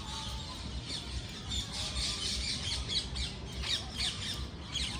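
Several birds chirping and squawking, many short, quick high calls overlapping one another, over a low rumble.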